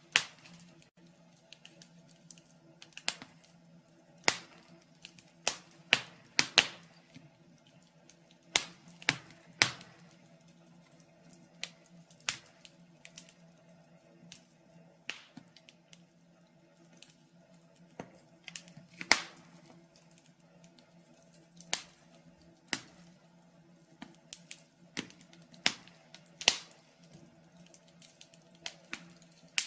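Wood fire crackling in a fireplace, with irregular sharp pops every second or two.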